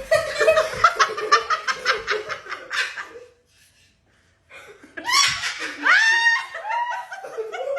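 Laughter: a quick run of rapid ha-ha pulses, a break of about a second, then more laughter that slides up and down in pitch.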